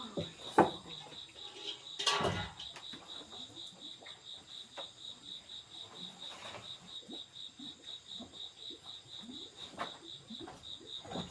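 Insects chirping steadily, a high pulsing trill of about four to five pulses a second, with a sharp knock just after the start, a short rustle about two seconds in and a few light clicks.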